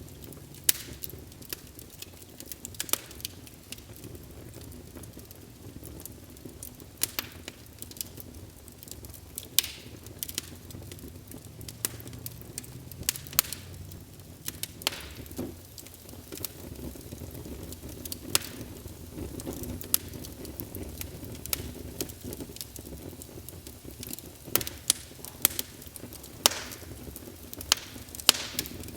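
Wood fire burning in a fireplace, a steady low rumble broken by sharp, irregular crackles and pops every second or so.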